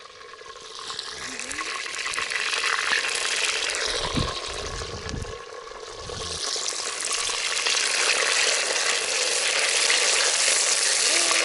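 Food sizzling and frying in a cast-iron potjie over a campfire. The sizzle builds over the first couple of seconds, dips briefly about five seconds in, then holds steady.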